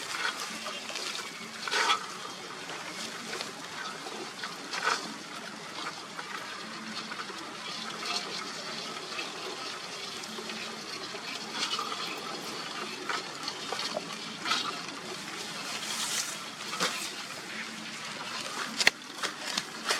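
Water running and splashing steadily, with occasional sharper splashes or knocks.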